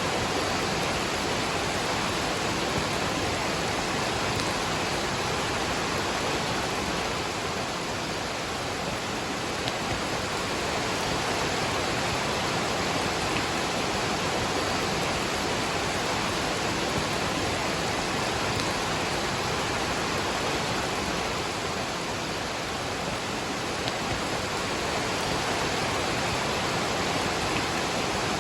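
A waterfall and rain: a steady, even rush of falling water.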